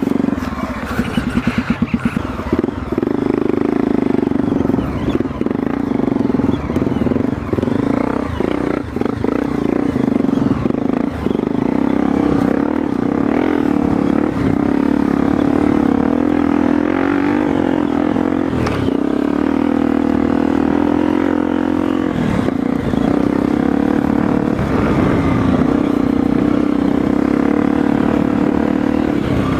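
Trail motorcycle engine running while riding, its note rising and falling with the throttle.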